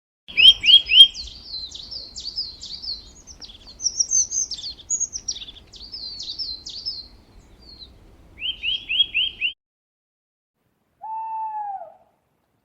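A songbird chirping in quick runs of short, high, down-sweeping notes for about nine seconds. After a pause, one lower, falling call comes near the end.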